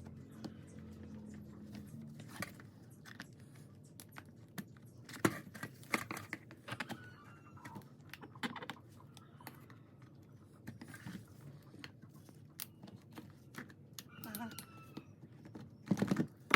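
Irregular small clicks, taps and knocks of tools and metal parts being handled while a concrete rotary hammer drill is taken apart, with a few louder knocks about five and six seconds in.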